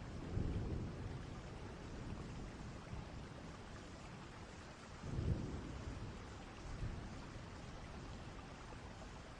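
Distant thunderstorm ambience: steady rain with low rolls of thunder, one about half a second in and a stronger one about five seconds in.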